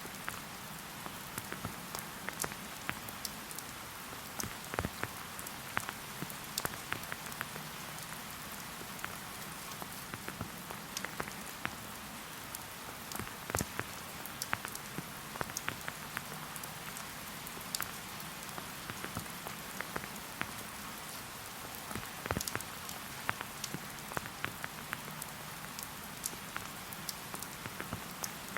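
Steady rain falling, an even hiss with many separate drops ticking close by at irregular moments.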